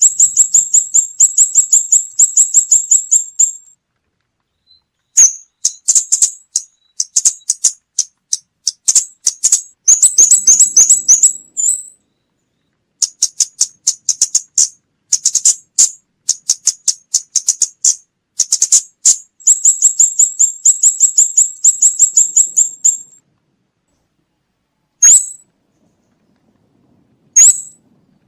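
Scarlet-backed flowerpecker calling: long runs of rapid, high-pitched ticking notes lasting a few seconds each, separated by short pauses, then three single sharp notes near the end, with no background noise between them.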